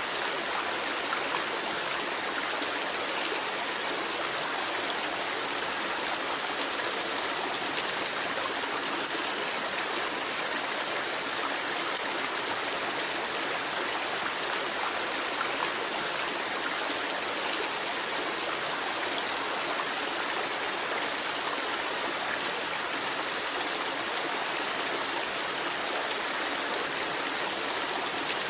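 Creek babbling, a steady rush of running water that holds even throughout.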